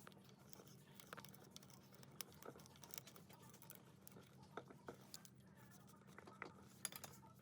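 Near silence: faint scattered clicks and light taps over a low steady hum.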